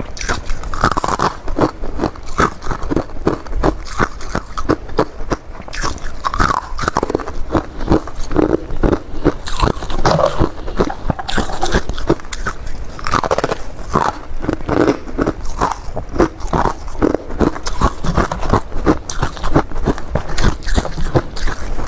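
Crunchy humidifier frost being bitten and chewed fast, close to the microphone: dense, rapid crunching with no pause.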